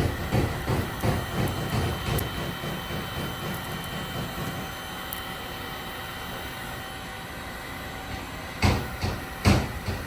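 Hammer working a damaged car body panel: a run of dull knocks, about two to three a second, that dies away after about four seconds. After a steady hum, two loud sharp blows land about a second apart near the end.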